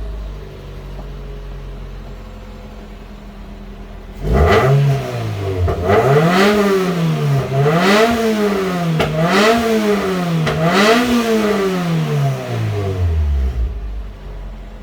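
Toyota ST202 Celica's 3S-GE 2.0-litre twin-cam four-cylinder idling, then revved up sharply five times in quick succession and settling back to idle near the end. It revs up cleanly without hesitation, which the seller takes for a healthy engine despite high mileage.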